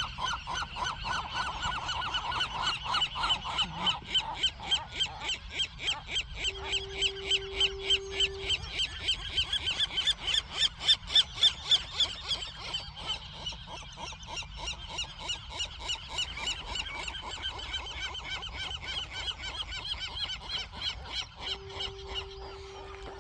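A nesting colony of western gulls calling continuously, many birds giving rapid repeated calls at about four or five a second, loudest around the middle. A steady low tone sounds twice for about two seconds each, near a third of the way in and near the end.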